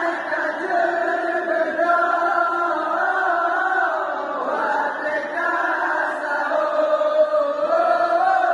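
Melodic chanted call to wake people for the sahur meal, sung in long, wavering held notes with no pauses.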